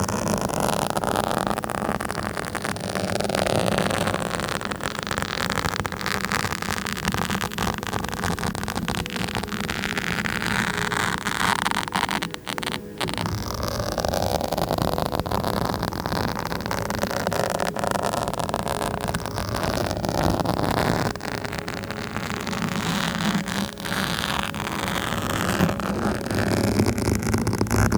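A microphone being scratched close up: continuous dense scratching and rubbing, with a brief drop about twelve seconds in.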